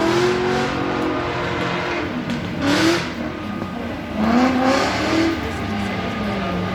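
Race car engine revving hard, its pitch climbing in several quick rising sweeps as it accelerates, then falling away near the end.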